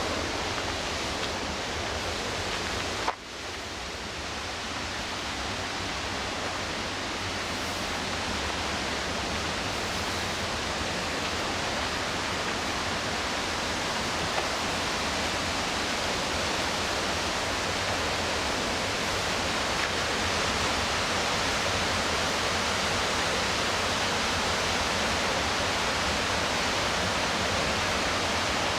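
McKenzie River whitewater rushing, a steady dense noise of falling and churning water. Near three seconds in the level drops suddenly and then swells back over a second or two.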